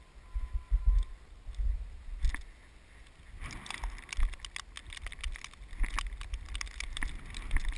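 Gusty wind buffeting the microphone in blowing snow, with uneven low rumbles. From about halfway there is a dense run of crackles and ticks.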